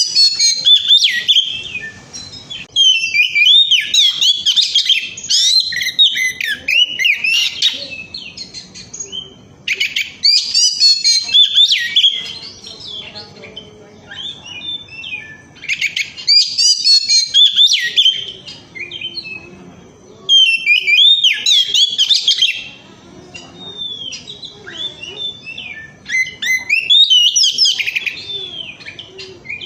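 Oriental magpie-robin (kacer) singing loudly in six bursts of rapid, varied whistled phrases, each lasting a few seconds. Softer twittering fills the gaps between bursts.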